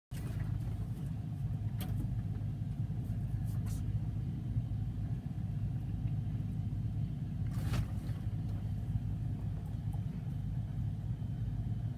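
A 1994 Kia Ceres's 2.4-litre diesel engine running at a steady speed, a low even rumble, with a few faint clicks over it.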